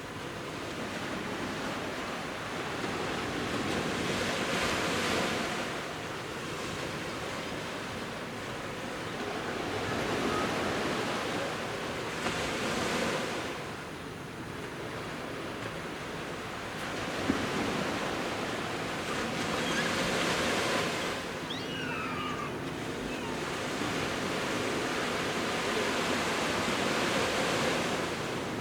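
Sea surf breaking and washing up the beach, swelling and ebbing every few seconds. There is one brief click a little past halfway.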